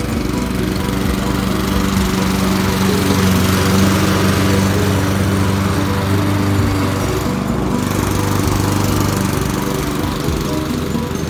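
Gas walk-behind push lawn mower's small engine running steadily while cutting grass.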